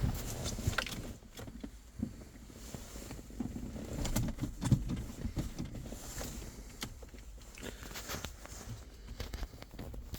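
2.0 HDi four-cylinder turbodiesel engine running just after a cold start at −8 °C, with a steady low rumble and a very strong knocking from the cold engine.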